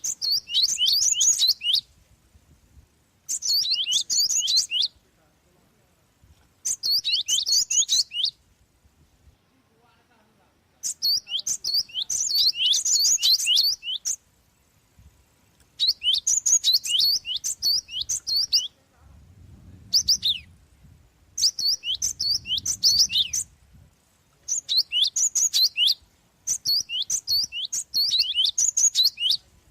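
Java sparrow (glatik) singing: about nine bursts of rapid, high-pitched chirps, each a second and a half to three seconds long, with short pauses between them.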